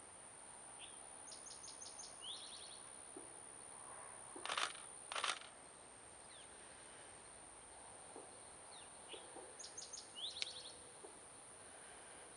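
A small songbird singing two short, quick trilled phrases of rapid high notes, one near the start and one near the end, over a steady high-pitched whine. In the middle come two brief, louder rushing noises about half a second apart.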